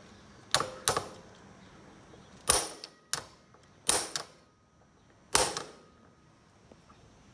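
Sharp metallic taps of a hammer striking a screwdriver, six irregular blows with a brief ring after each, to shock a seized, corroded screw free.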